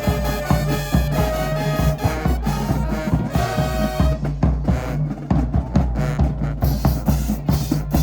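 High school marching band playing: brass holding long notes over bass drum and snare hits. About halfway the horns thin out and the drums carry the beat.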